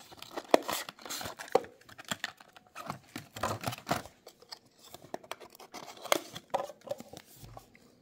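Packaging of a small diecast model car being opened and handled: irregular crinkling, tearing and scraping of plastic and cardboard.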